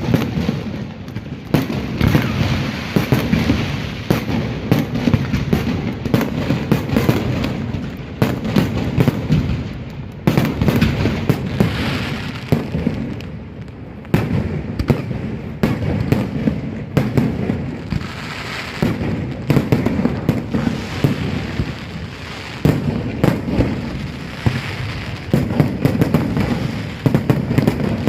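Fireworks display going off in dense volleys: rapid bangs and crackling bursts one after another, easing briefly about ten seconds in and again around fourteen seconds before building back up.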